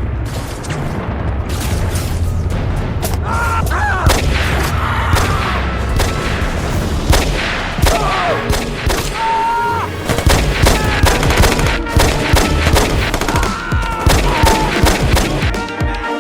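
Battle sound effects: rapid gunfire and machine-gun fire with booming explosions over a steady low rumble, dense shots throughout. A few short pitched sounds that bend in pitch cut through in the middle.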